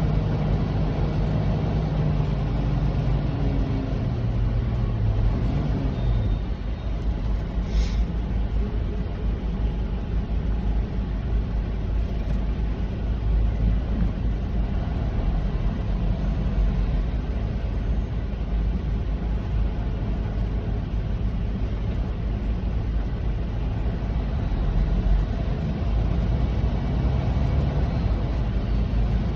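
Semi truck's diesel engine and road noise heard inside the cab: a steady low rumble. The engine note falls over the first few seconds as the truck slows in traffic, and there is one short click about eight seconds in.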